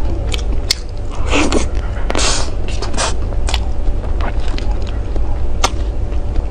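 Close-miked chewing and biting of a fruit-filled ice cream cake: wet mouth clicks and a couple of short crunchy bites about one and two seconds in, over a steady low hum.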